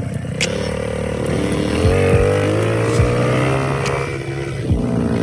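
Small kids' dirt bike engine revving: the pitch holds, climbs as the throttle opens through the middle, then drops back near the end.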